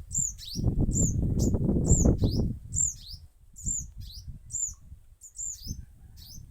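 A young bird repeating a high, down-slurred chirp about once a second, calling for its parent to come and feed it. A loud low rumble runs under the first half and then fades.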